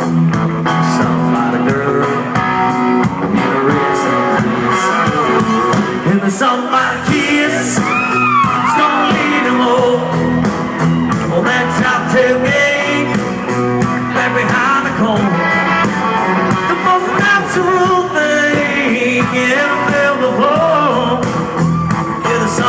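A live country rock band playing loud, with a male lead singer singing over guitars and drums. The sound is full and steady, a concert heard from the crowd.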